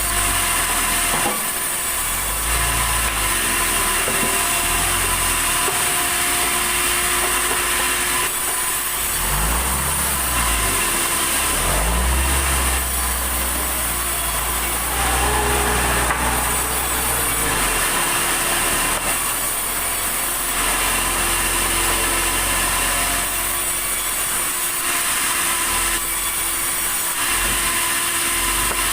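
Sawmill saw cutting a log of red tasak timber: a steady machine drone with a high hiss and a running tone that shifts a little every few seconds.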